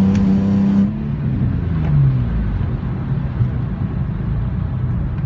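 Infiniti G35's V6 engine running through catless downpipes, held at a steady high rev, then about a second in the note drops and the revs fall back to a lower, steady run.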